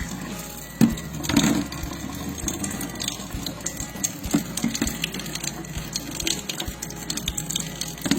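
Water running from a Kangen water ioniser onto a greasy metal mesh kitchen exhaust filter, with irregular clinks and rattles as the filter is moved under the stream.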